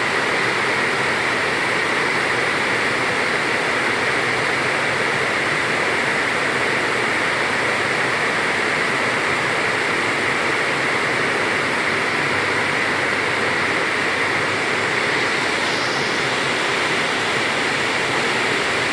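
Heavy tropical downpour: a steady loud hiss of rain falling, with no let-up.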